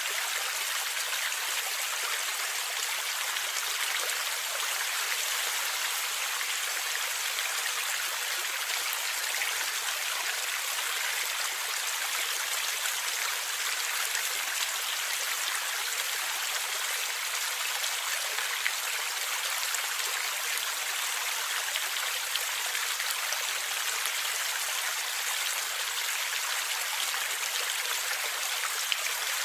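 Forest stream flowing steadily over rocks, an even rush of gurgling water with no breaks.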